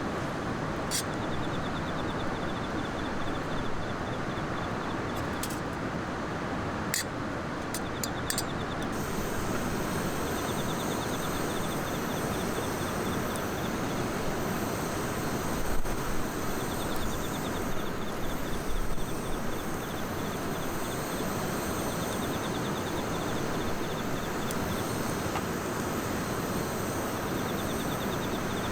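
Steady outdoor background noise with a faint high trill that repeats in short bursts every few seconds. Several sharp crackles come in the first few seconds, typical of a wood campfire, and a few soft knocks come past the middle.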